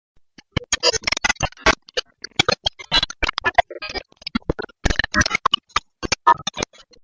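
A rapid, irregular clatter of sharp clicks and knocks, dozens of them in quick succession.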